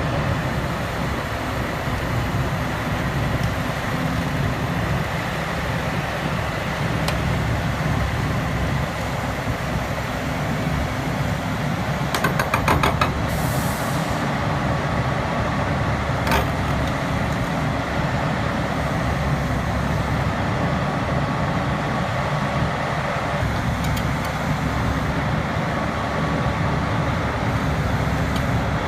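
Heavy diesel engines running steadily. About twelve seconds in there is a brief fast metallic rattle, then a short hiss, and a single sharp click a few seconds later.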